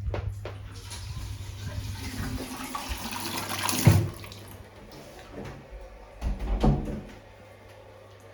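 Water hissing through the pipes as the supply is turned back on and the shower plumbing refills; the hiss swells for about three seconds and stops about four seconds in. A few knocks and thuds follow.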